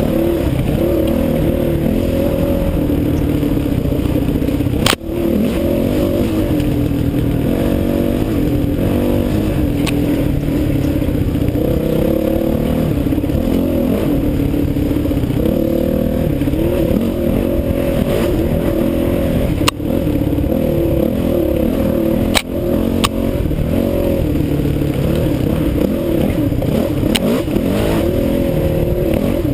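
Honda CRF450X's single-cylinder four-stroke engine running continuously, its pitch rising and falling with the throttle. A few sharp knocks cut in, three of them standing out.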